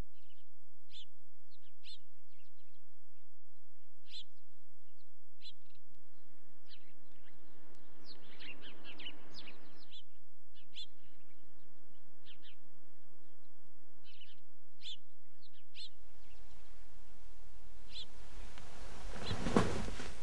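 Songbirds chirping and calling, in short scattered chirps throughout. Near the end comes a brief, louder noise.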